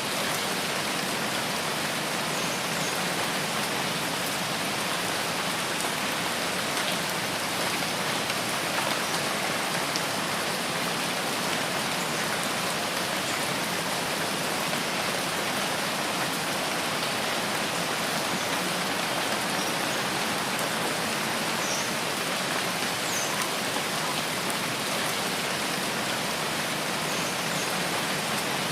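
Steady rain falling in a rainforest: a dense, even patter that holds at one level throughout.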